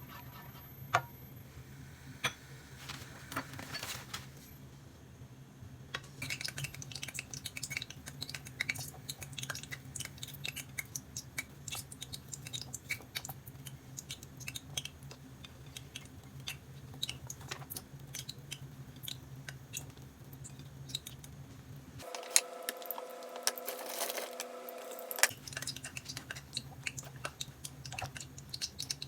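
Many small scattered clicks and taps of kitchen handling over a steady low hum; for a few seconds near the end the hum gives way to a different steady sound with several tones.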